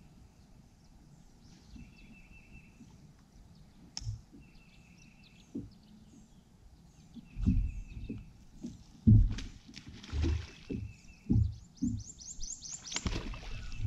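A bird repeats a short, buzzy, even-pitched song about every two and a half seconds. From about halfway there is a series of loud, irregular low thumps and knocks, with a quick run of rapid clicks near the end.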